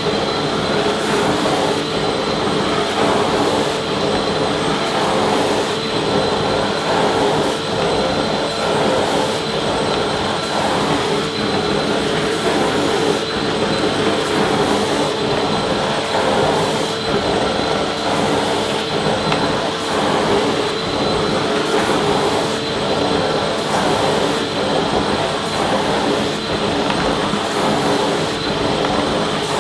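Vacuum cleaner running continuously: a steady motor hum with a high, constant whine over a dense rush of air.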